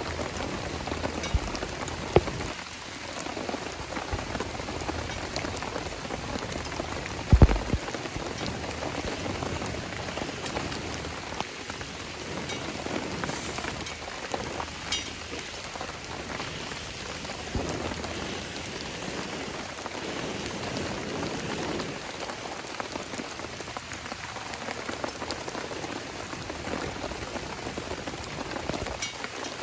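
Steady rain falling, with scattered sharp clicks and one louder knock about seven seconds in.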